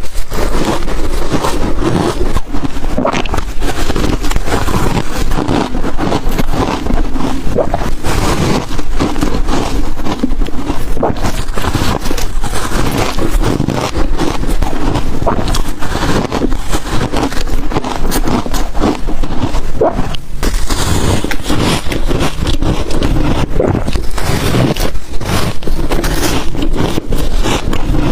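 Ice dusted with matcha and milk powder being bitten and chewed close to the microphone: a loud, dense run of sharp crunches and crackles without a break.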